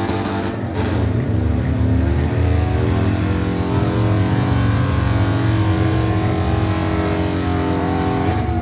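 Motorcycle engine held at high revs during a burnout, the rear tyre spinning. Its pitch dips briefly, climbs steadily for several seconds, then drops near the end.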